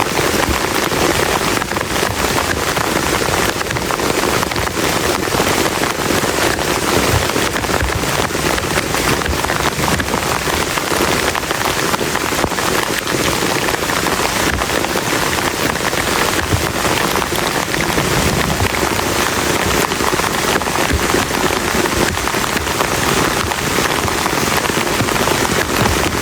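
Very heavy rain pelting a plastic tarp, a dense, steady patter of drops with no letup.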